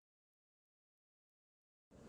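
Near silence: dead quiet, with a loud sound cutting in abruptly at the very end.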